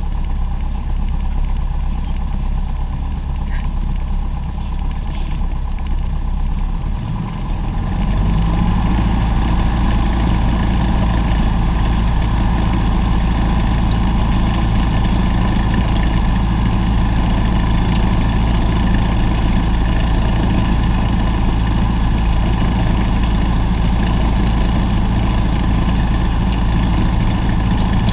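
Aircraft engine running steadily, stepping up in power and pitch about seven seconds in, then holding at the higher setting.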